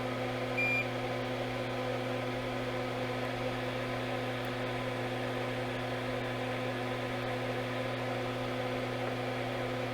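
Steady electrical hum from the workbench equipment, with one short high beep under a second in.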